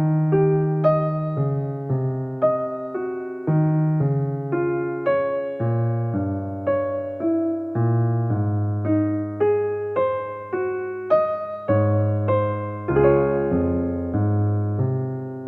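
Background music: a solo electric piano playing a gentle melody of single struck notes over held bass notes.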